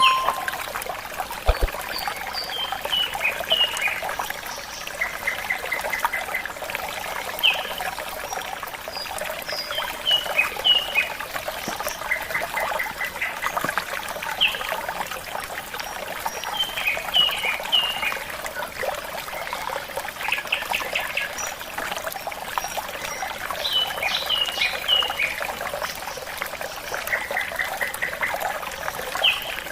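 Tropical forest birds calling throughout: short chirps, quick trills of repeated notes and brief high whistles, over a steady background of running water.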